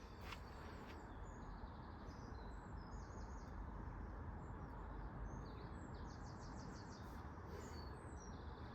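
Faint outdoor background: small birds chirping, with a few short rapid trills, over a low steady rumble.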